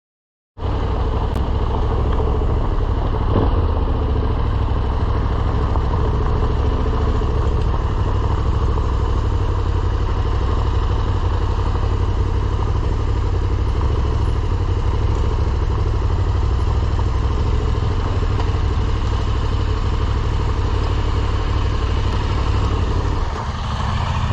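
Motorcycle engine running steadily at idle, a loud constant low rumble that starts abruptly about half a second in and eases slightly near the end.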